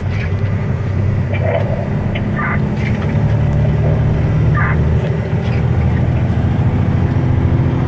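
Mack truck's diesel engine running steadily with a low drone, a few brief higher-pitched sounds over it now and then.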